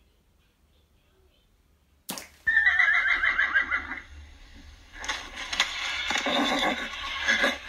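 Horse whinnying twice: a high, quavering whinny about two and a half seconds in, then a second, lower and noisier whinny about a second later.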